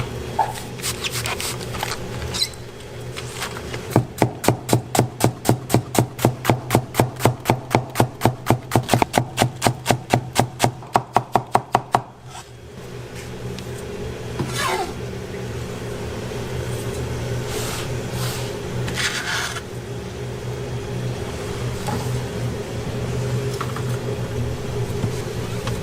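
Knife chopping on a wooden cutting board in a fast, even rhythm of about three to four strokes a second for some eight seconds, over a steady kitchen hum, followed by a few scraping sounds.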